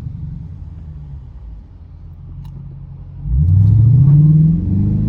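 Dodge Challenger R/T's Hemi V8 running low and quiet, then floored about three seconds in: the revs climb sharply and loudly for about a second before levelling off near the end.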